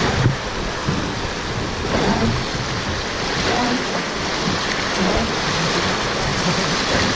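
River water rushing past the boat: a steady, loud wash of water, with faint voices in it.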